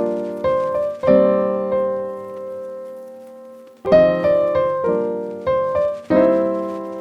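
Background music: electric piano chords struck in a slow pattern, one held and fading for nearly three seconds in the middle.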